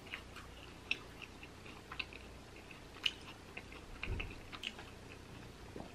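A person chewing a mouthful of fried fish sandwich quietly, with soft, scattered mouth clicks about once a second and a soft low thump about four seconds in.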